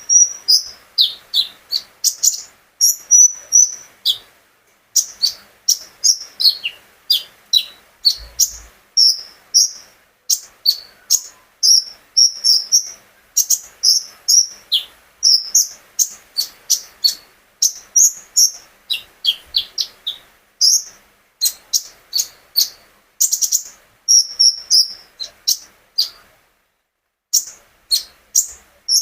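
A konin songbird singing a fast, loud run of short, sharp high chirps and whistles in bursts with brief gaps, falling quiet for a moment near the end before starting again.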